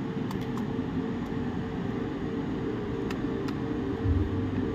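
Steady mechanical hum of a room fan or air-conditioning unit, with a few faint clicks from handling small laptop parts.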